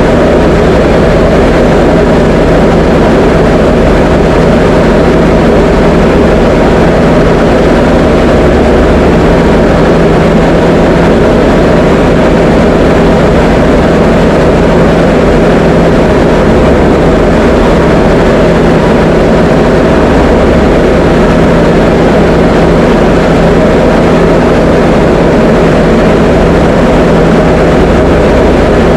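Diamond DA20 light aircraft's piston engine and propeller droning steadily, with an even hum at a constant level.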